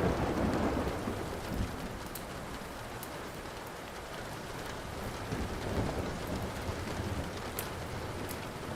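Steady rain with rolling thunder: a rumble dies away over the first second and another softer one swells and fades past the middle. Sharp pops from a crackling wood fire come scattered through it.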